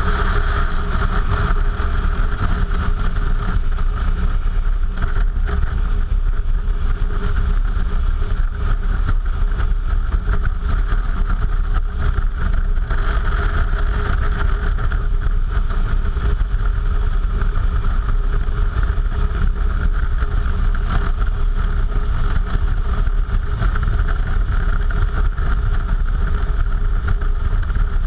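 Suzuki V-Strom motorcycle riding along at a steady pace: the engine runs evenly under load with a low rumble, with no marked revving or gear changes.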